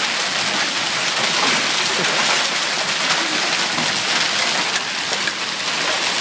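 Heavy storm rain pelting down steadily in a hailstorm, with a dense patter of sharp little ticks of impacts.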